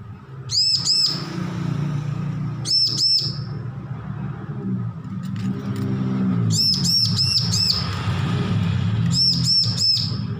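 Bar-winged prinia (ciblek) calling in short runs of sharp, high, repeated chirps: two notes, then two, then a run of five, then four near the end. A steady low hum runs underneath.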